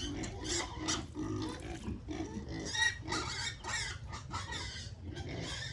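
Pigs squealing and grunting, with many short calls overlapping one another.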